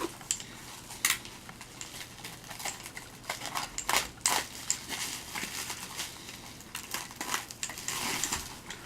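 Light clinks, taps and rustling of loose diecast model cars and their packaging being handled, with sharper clicks about a second in and around four seconds in.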